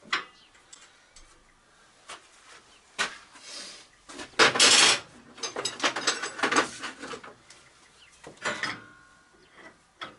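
Metal parts clanking and scraping as steel lathe-bed components are handled. There are scattered knocks, a loud scrape a little before the middle, a quick run of clinks after it, and a knock near the end that rings briefly.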